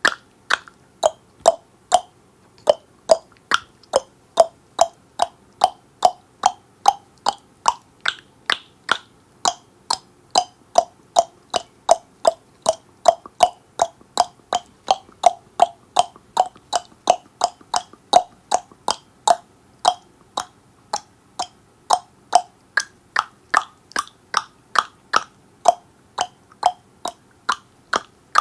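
Tongue clicking: a steady run of sharp, hollow mouth clicks, about two a second.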